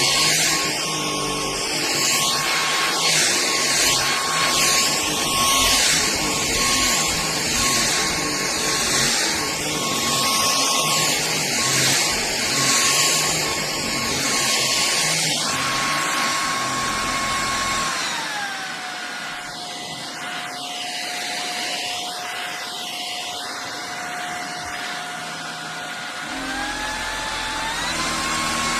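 Hoover HF3 cordless stick vacuum running: a steady high motor whine over rushing air, swelling and easing as it is pushed back and forth. About two-thirds of the way through, the whine drops to a lower pitch and the rush thins. Near the end it steps back up to the higher pitch.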